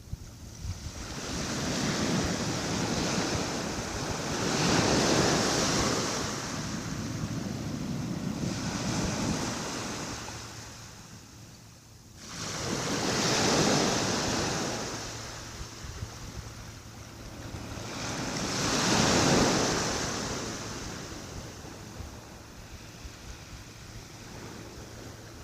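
Small waves of a calm sea breaking gently on a beach and washing up the shore, each one swelling and fading over a few seconds, several times, with quieter lulls between.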